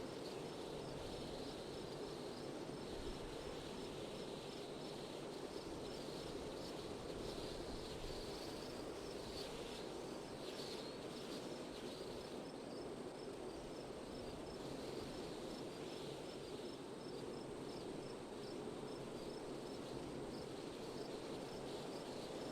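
Steady wind noise with a low rush, and an insect chirping high and evenly, about two chirps a second.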